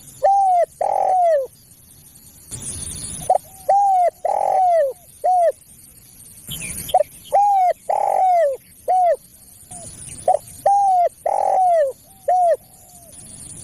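Spotted dove cooing: a repeated phrase of three or four short arched hoots, given four times about three seconds apart. Two brief bursts of hiss fall between the phrases.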